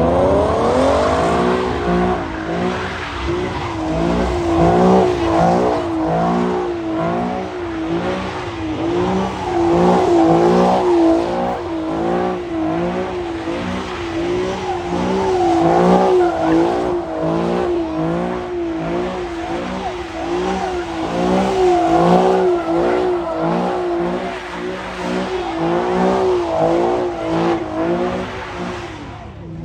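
A car engine revving high through a stunt, its pitch swinging up and down about once a second as the wheels spin.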